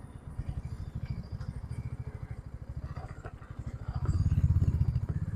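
Motorcycle engine idling with a fast, even low putter, growing louder about four seconds in.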